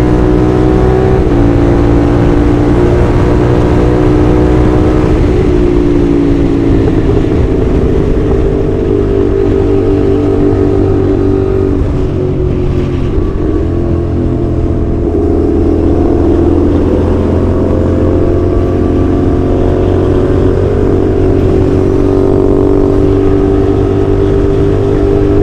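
CFMoto 450SR's 270-degree-crank parallel-twin engine running under way, its pitch mostly steady with slow rises and falls and a few shifts as the throttle changes.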